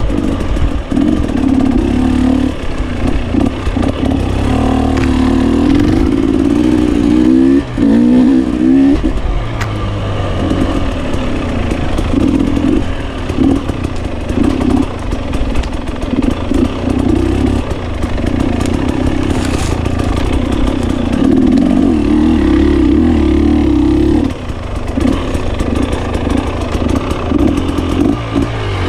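GasGas 300 two-stroke enduro motorcycle engine being ridden, the throttle opening and closing so the engine note rises and falls, with brief drops in revs.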